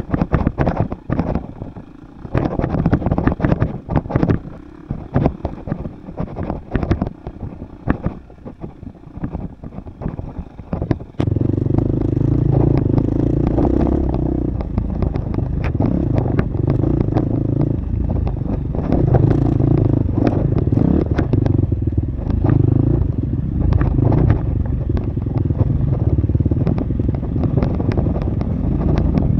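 Husqvarna FX 350 dirt bike's four-stroke single-cylinder engine on a trail ride, at first low and mixed with many irregular knocks and rattles. About eleven seconds in, the engine comes on strongly and runs steadily under throttle.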